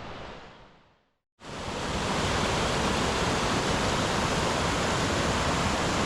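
Steady, even rushing noise. It fades out in the first second, breaks off into silence, and comes back louder about a second and a half in. It then holds level until it cuts off abruptly.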